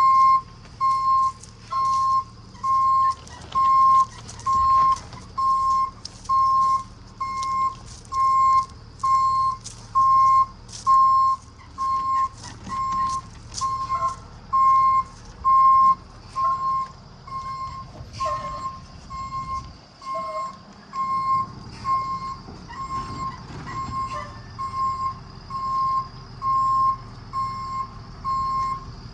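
Box truck's reverse warning alarm beeping steadily, about one and a half beeps a second, over the low hum of the truck's engine: the truck is backing up.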